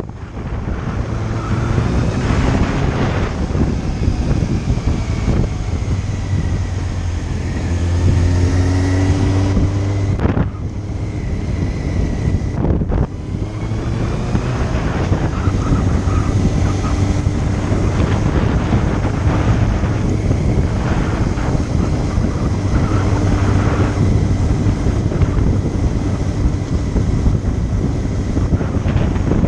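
Motorcycle engine running while riding, with heavy wind buffeting on the microphone. The engine pitch climbs as it accelerates, and the sound drops out briefly twice, about ten and thirteen seconds in.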